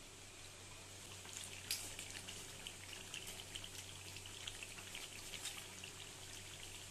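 Chicken curry cooking in a kadai, the gravy sizzling faintly with many small, irregular crackles and pops over a steady low hum.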